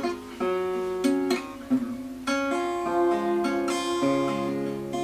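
Acoustic guitar introduction: plucked and strummed chords, each ringing out, before the singing begins.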